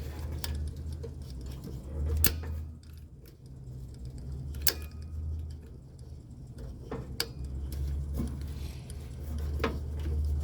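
A new AC compressor contactor chattering: a low electrical buzz that swells and drops away, with sharp clicks about every two and a half seconds as the contacts pull in and drop out. The chatter is a sign of unsteady low-voltage control power, which the technician suspects comes from a fault at the indoor unit.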